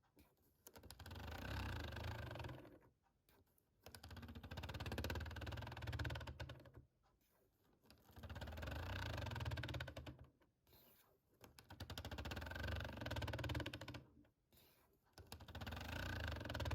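Fingers tapping fast on a small object, in runs of two to three seconds broken by pauses of about a second.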